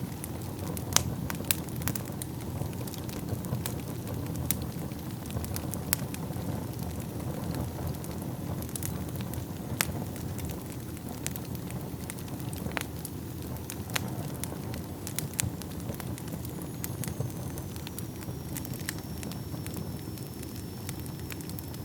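Wood fire burning in a fireplace: a steady low rumble of flames with irregular sharp crackles and pops from the burning logs. A faint thin high whistle comes in about three-quarters of the way through.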